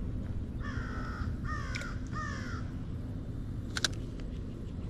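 A bird calling three times in quick succession, each call about half a second long, followed about a second later by a single sharp click, over a steady low rumble.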